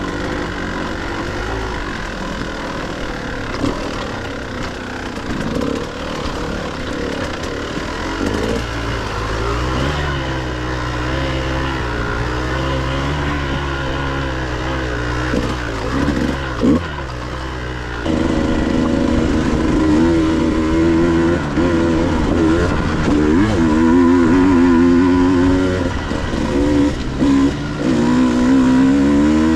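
Dirt bike engine riding on a trail, its pitch rising and falling with the throttle. About two-thirds of the way through it gets louder and revs higher, with a few quick blips of throttle near the end.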